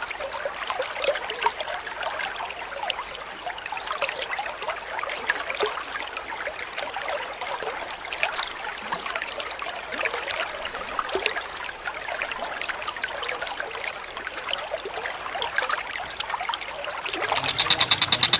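Water trickling and splashing steadily. Near the end, a bird starts a loud, fast, repeated chattering call.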